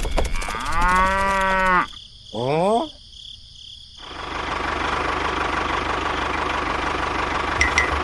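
A cow mooing once, about a second long, over a small engine's rapid knocking. A short rising call follows, then a second of quiet, then a steady engine hum.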